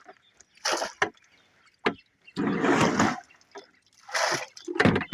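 Water splashing and pouring in several short bursts with brief gaps between them.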